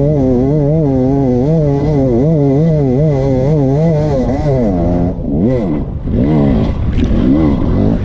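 Dirt bike engine running under constant throttle changes, its pitch rising and falling about twice a second; after about five seconds the revs swing higher and lower in quick blips.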